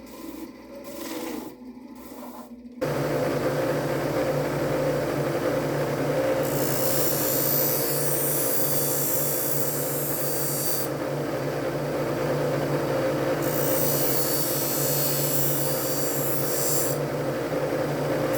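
A powered knife sharpener switches on about three seconds in and runs with a steady hum. Twice the knife blade is drawn against the abrasive, each a few seconds of hissing grinding.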